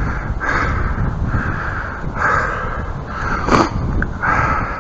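A bird calling harshly over and over, about one call a second, over a steady low rumble.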